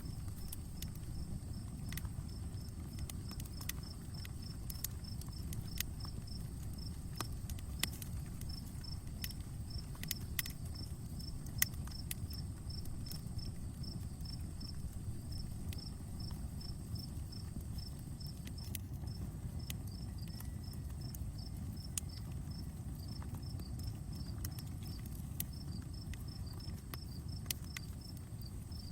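Wood fire crackling steadily, with a low rumble and scattered sharp pops. An insect chirps about four times a second throughout, over a steady high insect drone.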